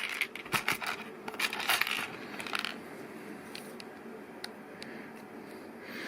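Plastic LEGO Technic pieces clicking and rattling as they are handled and pressed together: a flurry of sharp clicks in the first two or three seconds, then a few isolated ticks.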